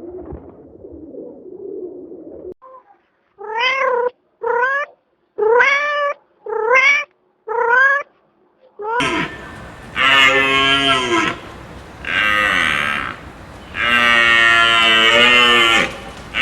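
Farm animal calls: five short meows, each rising in pitch, then three long, louder, lower moos from cattle over a noisier background.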